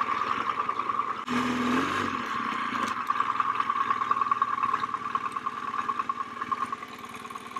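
BMW R1200GS boxer-twin engine running as the motorcycle is ridden, with a steady hum of engine and road noise. A brief lower drone comes in about a second and a half in.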